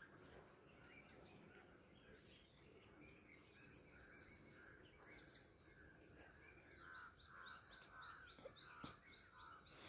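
Faint birdsong: small birds chirping, with a run of short, quickly repeated falling chirps near the end.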